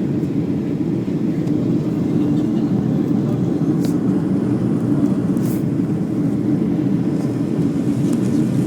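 Airliner cabin noise during the climb after takeoff: a steady, low rush of engines and airflow heard from inside the passenger cabin, with a couple of faint ticks.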